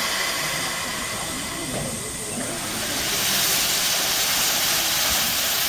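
Steam locomotive C61 2's whistle sounding and cutting off about two and a half seconds in, followed by a steady loud hiss of escaping steam.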